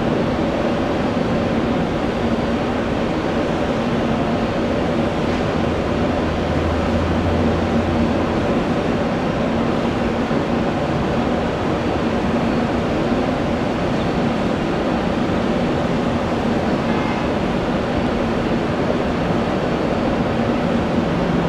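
Steady jet airliner engine noise: a constant drone with a low hum that strengthens for a couple of seconds about six seconds in.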